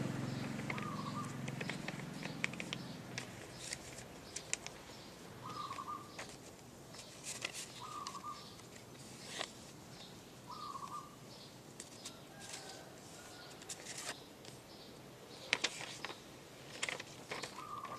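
A sheet of paper being folded and creased by hand into a boat, with scattered crackles and rustles. A bird gives a short falling chirp every two to three seconds.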